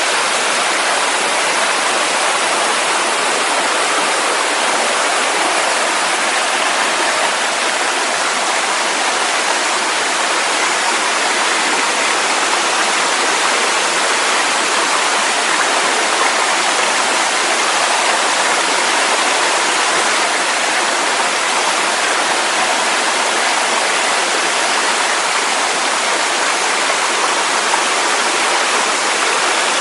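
Mountain waterfall, water cascading over mossy rock ledges in a loud, steady rush.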